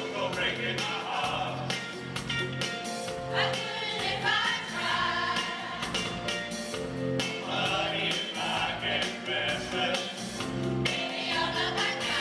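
A choir singing a pop song over a rhythmic instrumental backing.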